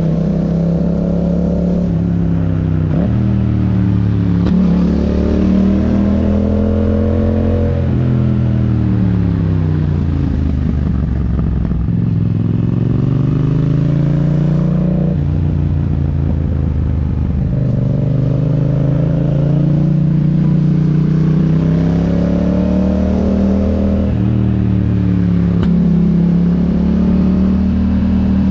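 A 2021 Yamaha MT-07's parallel-twin engine running through an Akrapovic exhaust under way, its pitch climbing and falling several times as the rider accelerates, shifts gear and eases off.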